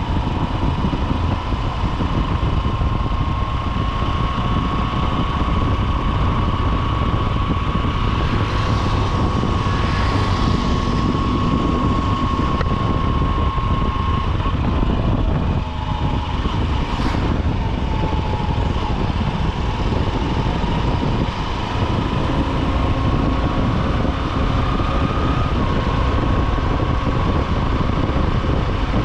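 A Honda SP125's single-cylinder four-stroke engine running steadily while riding through city traffic, with a thick low rumble of road and street noise and a steady tone that drifts slightly in pitch. There is a brief sharp noise about seventeen seconds in.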